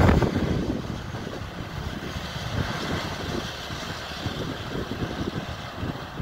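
A passing train receding: its loud rail noise falls away over the first second, leaving a fainter, uneven low rumble.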